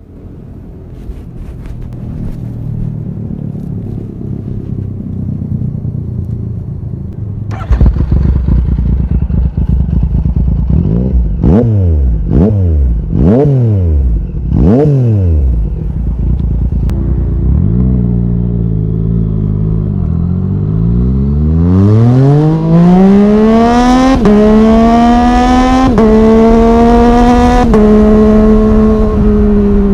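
Yamaha MT-09's three-cylinder engine through an Arrow Thunder full exhaust system. It idles with a low rumble that steps up in loudness about eight seconds in, then gets four quick throttle blips and two slower revs. It then pulls away hard, the pitch climbing and dropping briefly at three upshifts.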